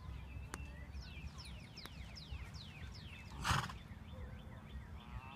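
A bird calling in a quick series of falling chirps, about four a second, over a low outdoor rumble. A short, loud rush of noise cuts in about three and a half seconds in.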